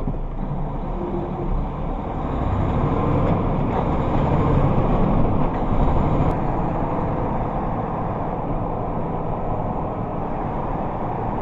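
Steady road and engine noise of a moving vehicle as picked up by a dashcam, a dense low rumble that gets a little louder about two seconds in.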